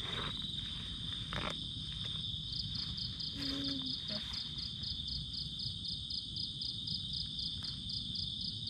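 Night insects calling: one steady high trill, with a second insect chirping in even pulses about four times a second, over a low background rumble.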